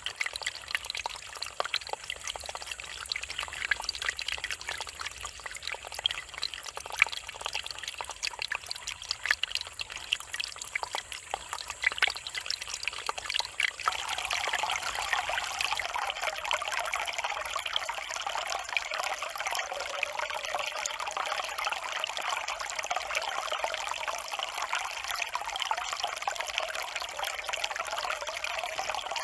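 Mountain stream water running and trickling over rocks, with many small splashes and drips. About halfway through it changes to a fuller, steadier rushing.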